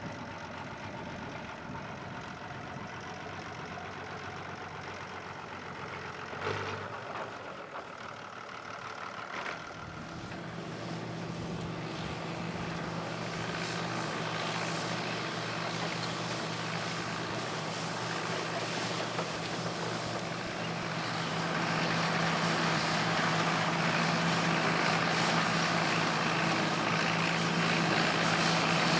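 Engine of a vintage farm machine running steadily, getting louder as it comes closer, most of all in the last third.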